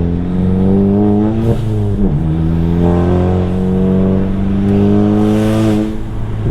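Volkswagen Mk7 Golf GTI's turbocharged 2.0-litre four-cylinder, on an EQT Stage 2 tune, accelerating hard. The engine note climbs, drops at a gear change about two seconds in, then climbs again through the next gear until the throttle closes near the end, with a short rush of hiss.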